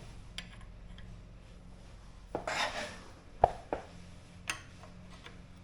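Hand tools clicking and knocking against metal, with a short scraping rustle a little before halfway and three sharp clicks after it.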